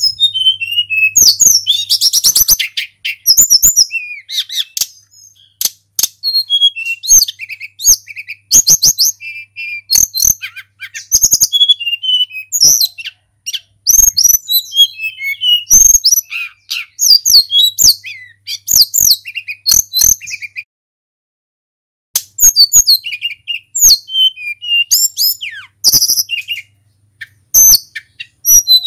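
Tledekan gunung singing a long, fast, varied song of high whistles, sweeping notes and rapid chattering, broken by one short pause about two-thirds of the way through.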